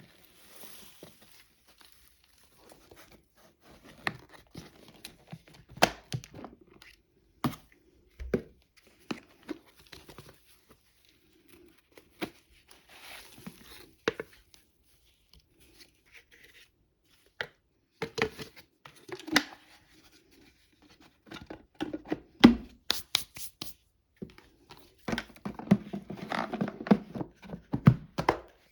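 Scattered clicks, knocks and short rustling scrapes with quiet gaps between, growing denser near the end; no steady motor sound.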